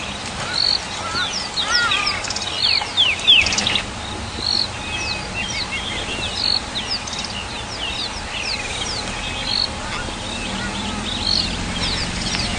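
Several forest birds calling together, one repeating a short high note about once a second, others giving quick falling whistles and chirps. A low steady rumble runs underneath.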